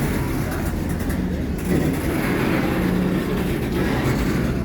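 Steady low rumble of the CP Holiday Train's diesel locomotive engine, with a large crowd chattering.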